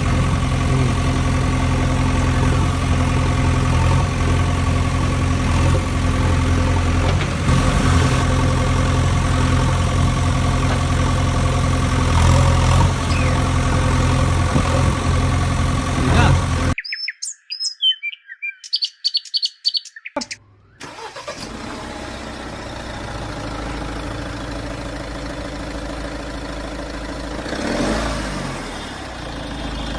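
A heavy vehicle's engine running steadily for about seventeen seconds, then an abrupt cut to a few seconds of high bird chirps, then a quieter engine running on, swelling briefly near the end.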